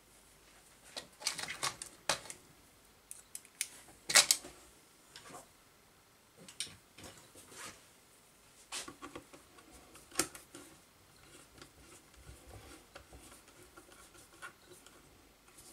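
Irregular small clicks, taps and scrapes of hand work on a miter saw's motor, as an oversized new carbon brush is forced into its holder and screwed back in. Two louder knocks stand out, about four and ten seconds in.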